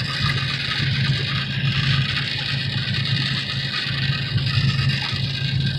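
Semi-truck's diesel engine running steadily at cruise, heard from inside the cab, with a steady hiss of road and cab noise.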